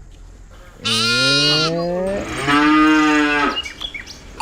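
Cattle mooing: two long calls, the first sliding up in pitch, the second held steady at a higher pitch.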